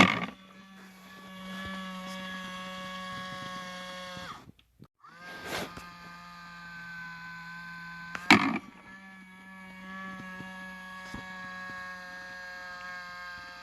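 A small electric motor hums and whines steadily. It cuts out about four and a half seconds in, then spins back up. Three sharp knocks or clacks come at the start, at about five and a half seconds and at about eight seconds.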